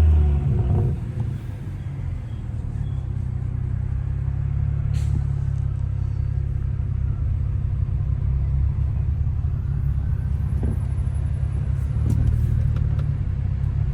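Straight-piped BMW N55 turbocharged inline-six exhaust: the revs fall away in the first second, then the engine runs steadily with a low rumble, swelling slightly near the end.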